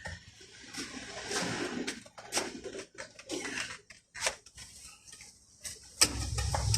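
Scattered clicks, knocks and rustles of hand work on a car door's manual window mechanism, with parts and tools being handled. A louder steady low rumble begins near the end.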